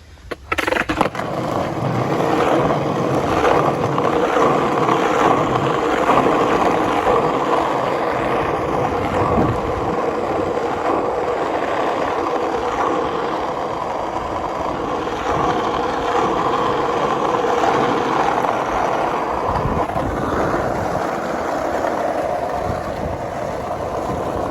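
Skateboard wheels rolling on a rough road surface, a steady loud rumble. It comes just after a few sharp clacks of the board in the first second.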